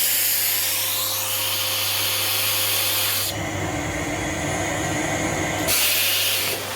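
Rowenta RO6835 EA canister vacuum cleaner running, a steady airy hiss over a low hum. For about two seconds in the middle the high hiss drops out and a lower rushing sound takes over, then the hiss comes back.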